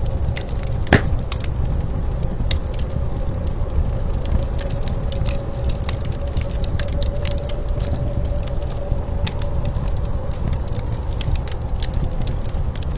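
Wood fire crackling with frequent sharp pops, one louder pop about a second in, over a steady low rumble of blizzard wind and a faint wavering tone.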